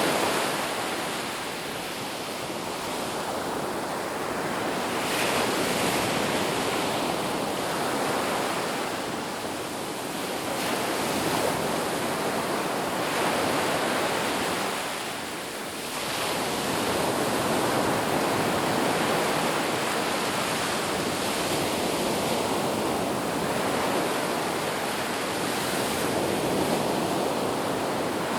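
Ocean surf washing on a beach, a steady rush that swells and eases every few seconds, with a brief lull about halfway through.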